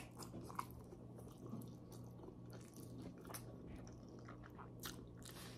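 Faint mouth sounds of a person chewing a mouthful of spaghetti: a few soft, scattered wet clicks over a low steady hum.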